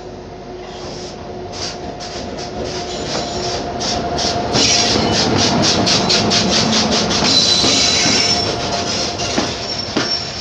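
A WAP-7 electric locomotive and its passenger coaches rolling past close by on the next track, getting louder as they draw level. A quick even run of wheel clicks over the rail joints comes around the middle, over a steady hum, and a high squeal of wheels or brakes follows as the train slows into the station.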